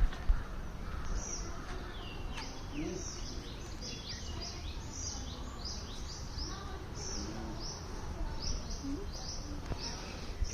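A chorus of small birds chirping: many short, high, downward-sweeping chirps in quick succession, over a low background rumble.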